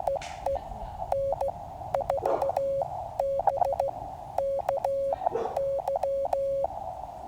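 QCX mini QRP transceiver sending Morse code: its sidetone keyed in dits and dahs at one steady pitch, with the receiver's narrow band of hiss coming back in the gaps between characters.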